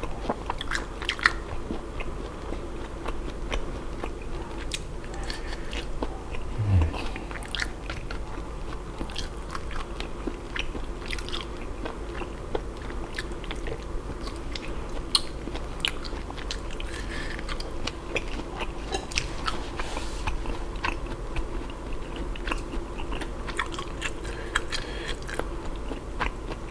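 Close-up chewing and biting: mala-seasoned grilled pork belly being bitten off a bamboo skewer and chewed, with many small mouth clicks throughout. About seven seconds in, a short low hum falls in pitch.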